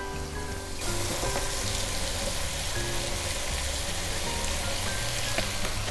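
Vegetables sautéing in butter in a hot pan: a steady sizzle that grows louder about a second in, over background music.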